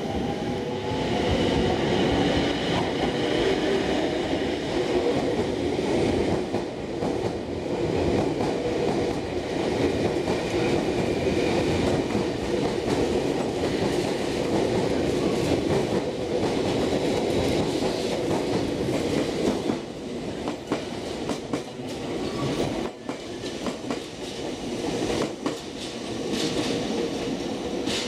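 Nankai electric commuter trains running at close range, a steady rumble with wheels clattering over the rail joints. About twenty seconds in it drops to quieter train running with scattered clicks.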